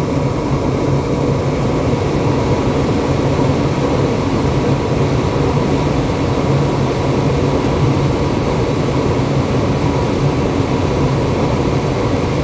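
Ruud GPN 80% gas furnace running while fired: a steady rushing noise of burners and fans, with a low hum underneath.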